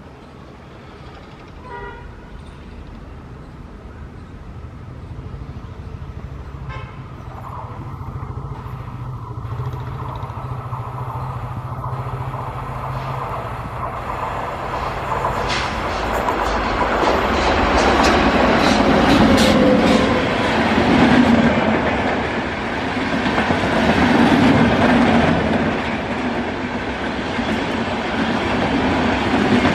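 WAP-7 electric locomotive hauling a passenger express train, approaching and growing steadily louder, with two short horn sounds in the first several seconds. From about fifteen seconds in, the locomotive and coaches pass close by with a loud rumble and the rhythmic clatter of wheels over the rail joints.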